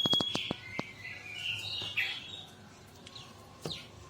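Mantenan songbird chirping and twittering in short sliding notes, with a quick series of sharp clicks in the first second.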